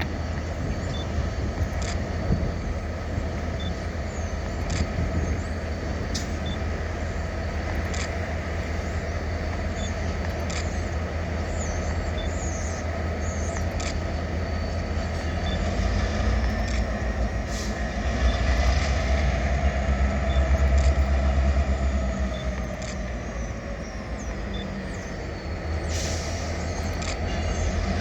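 EMD GP38-2 and GP40-2 diesel locomotives running with a steady low rumble that swells louder for several seconds past the middle. Scattered sharp clicks and a faint high squeal of wheels on rail come in toward the end.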